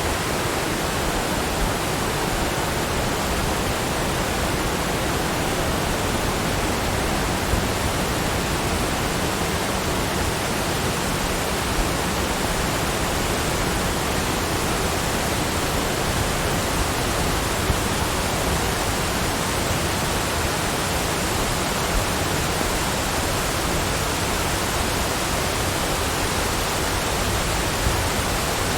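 Steady, unchanging rushing noise, spread evenly from low to high pitches.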